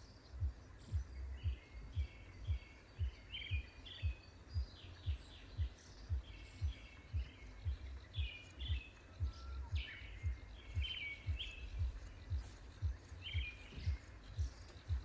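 Small songbirds chirping in repeated short phrases, with a dull low thump about twice a second, evenly paced, underneath.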